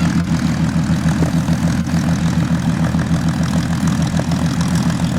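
Supermarine Seafire's V12 piston engine running in flight, a steady, even propeller-aircraft drone.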